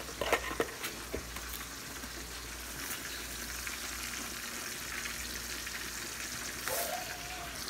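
Steady sizzle of breaded cube steaks frying in canola oil, with a few light clicks and taps in the first second or so as a salt canister is handled.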